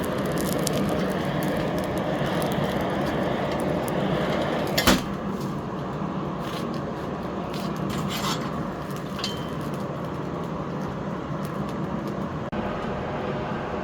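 A forge running with a steady roar and fine crackling. One sharp metallic knock comes about five seconds in, followed by a few lighter clinks of metal tools.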